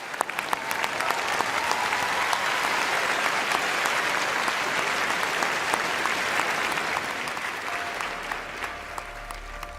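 Audience applauding after a performance. Scattered claps quickly swell into full, sustained applause, which eases off near the end as music comes in.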